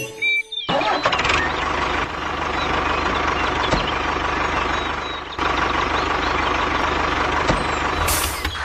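Small engine of a DIY mini tractor starting up abruptly about a second in, then running steadily with a fast, even firing pulse.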